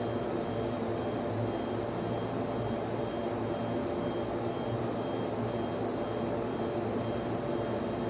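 Server room ambience: the cooling fans and equipment of network switches and servers running with a steady hum. A faint high tone pulses on and off about twice a second.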